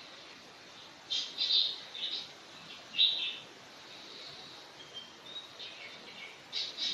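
Birds chirping in short bursts of high calls, about a second in, at two and three seconds, and again near the end, over a steady background hiss.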